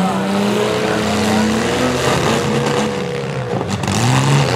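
Engines of several compact demolition derby cars running and revving, their pitch rising and falling. The engine note dips briefly and then revs up again near the end.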